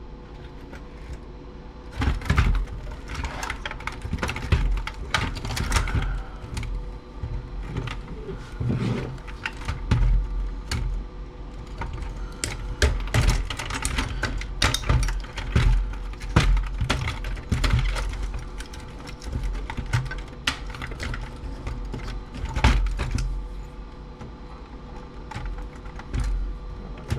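Clicks, taps and rattles from a stereo being taken apart by hand: a screw being removed and a circuit board and plastic and metal parts being handled, in irregular knocks throughout.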